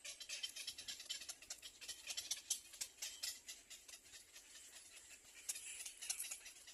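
Nestling birds begging: a dense run of rapid, high-pitched chirps and ticks, thinning out a little past the middle.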